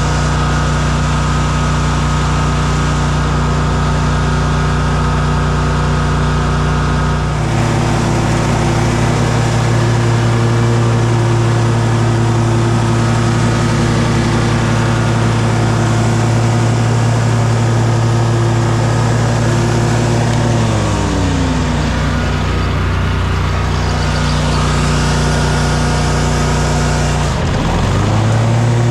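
An engine running steadily under load. Its pitch steps up about a quarter of the way in, slides down about two-thirds through, and dips briefly near the end before coming back up.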